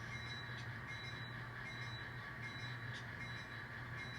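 Sound decoders in N scale model diesel locomotives playing a steady diesel engine rumble through their small onboard speakers, with a few faint clicks.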